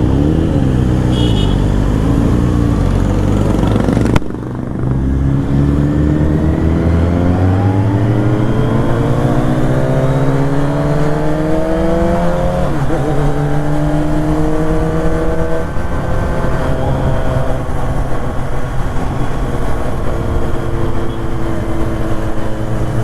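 BMW S1000RR inline-four through an Akrapovic Evolution exhaust, running low for about four seconds, then accelerating with the engine pitch climbing steadily. It drops at an upshift about halfway through, climbs again, and then settles into steady cruising.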